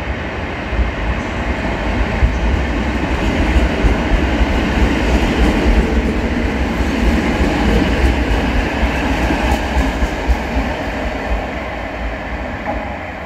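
Modernised EN57 electric multiple unit running along a station platform: a low rumble with wheel clatter that builds to its loudest mid-way through and eases off near the end.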